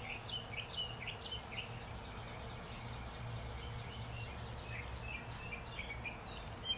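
Small birds chirping outdoors: a quick run of short chirps in the first second or two, then scattered fainter chirps. A low steady hum runs beneath them.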